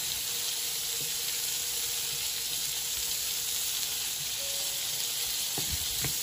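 Asparagus and yellow pepper strips sizzling steadily in browned butter in a nonstick frying pan. A few light knocks near the end as a slotted spatula turns them over.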